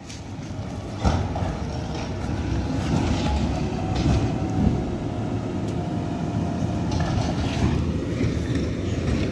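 Garbage truck running close by: a steady heavy rumble that builds over the first second, with a clank about a second in.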